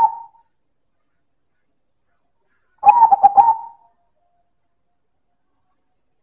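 Silver zebra dove (perkutut) singing: the tail of one song phrase right at the start, then about three seconds in a full phrase of quick staccato coos, about six notes in a second, ending in a drawn-out final note.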